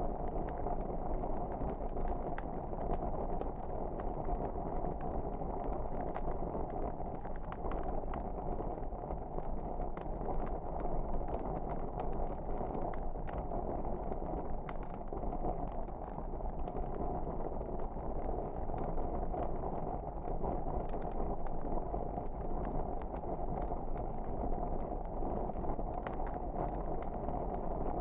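Fireplace wood fire burning: a steady low rush of flame with frequent small crackles and pops scattered throughout.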